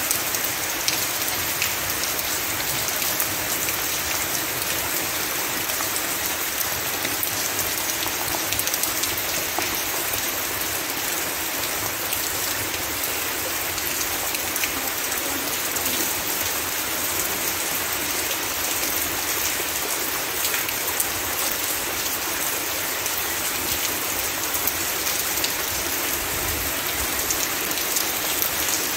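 Heavy rain falling steadily: an even hiss of many drops hitting the ground and surroundings, with no let-up.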